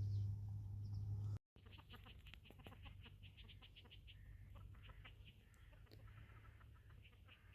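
A steady low hum that cuts off abruptly about a second and a half in, followed by birds calling: quick runs of short, high chirps, about five a second, with scattered clicks.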